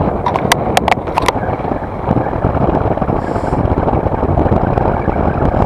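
Strong wind buffeting the microphone, a loud, steady noise heaviest in the low range. Several sharp clicks come in the first second and a half.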